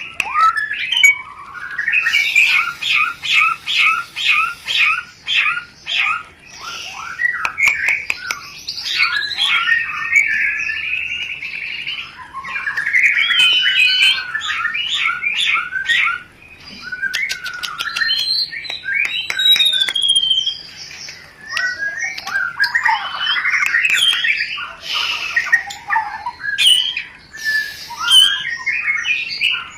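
White-rumped shama (murai batu) giving its rapid mating chatter. Quick runs of repeated sharp notes, several a second, mixed with trills and a few rising and falling whistled glides. This is the breeding-condition call ('rencetan') used as a lure to bring other shamas into breeding condition.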